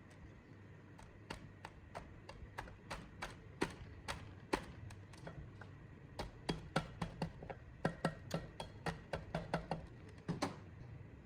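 An irregular run of sharp taps and clicks from hand work on metal parts. They come sparsely at first, then thicken to several a second about two-thirds of the way through before stopping shortly before the end.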